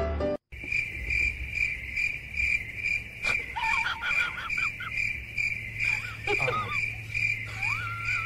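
A cricket chirping steadily, about two chirps a second. A dog's high, wavering whines sound over it, briefly about halfway through and again near the end.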